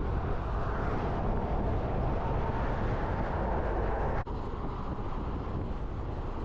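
Steady road and engine noise of a pickup truck driving, with a brief break about four seconds in.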